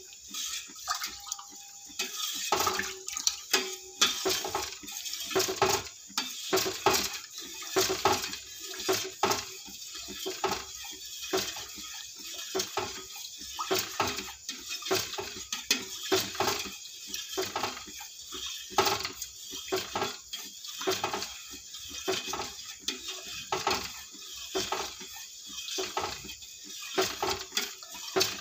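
Spoon stirring rice in water in a cooking pot: irregular scrapes and clinks against the pot with water sloshing, kept up steadily while the water has not yet come to the boil.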